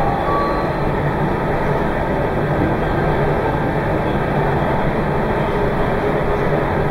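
Meitetsu 2200 series limited express electric train running at speed, heard from inside: a steady, even rumble of wheels on rail and running gear.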